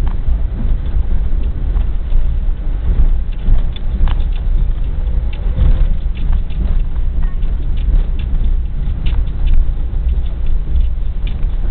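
Passenger train coach running at speed, heard from inside: a steady low rumble of the wheels on the track, broken by many short, irregular clicks and clatters as the wheels pass over rail joints and junction points.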